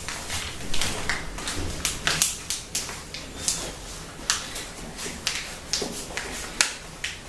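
A sheet of paper being folded and creased by hand: irregular sharp crinkles and rustles, about a dozen crackles.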